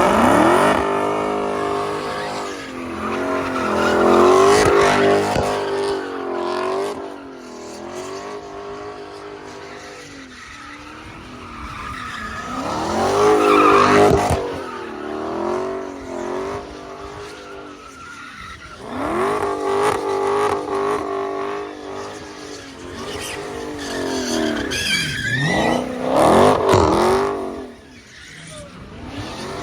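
Car engines revving hard in repeated surges, rising and falling in pitch about five times, with tyres squealing and skidding.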